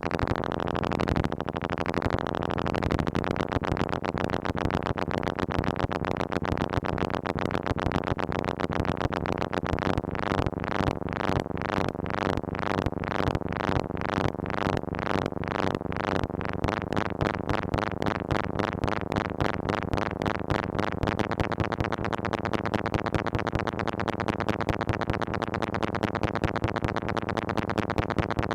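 Moog Mother-32 analog synthesizer playing a rapid, unbroken stream of short pulsing notes whose pitch and brightness wander without settling, driven by chaotic Lorenz-equation voltages from a Comdyna GP-6 analog computer. A few slower separate notes open it, the tone grows brightest midway, then duller toward the end.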